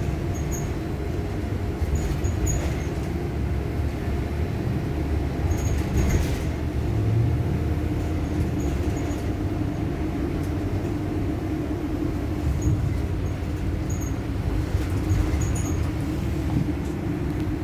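Steady low rumble heard from inside a bus cabin: the bus idling while a CSX manifest freight train rolls slowly past, with scattered faint light ticks.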